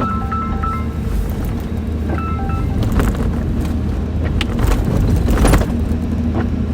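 Steady engine and road noise inside a moving vehicle's cabin, with a few knocks and bumps. Short high beeping tones come near the start and again about two seconds in.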